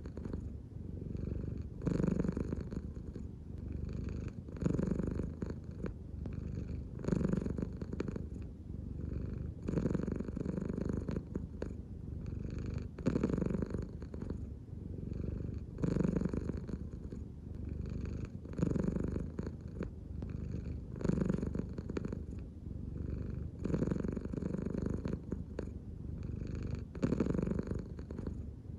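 American Shorthair cat purring close up, a steady low rumble that swells louder about every two and a half to three seconds with each breath, in and out from the belly.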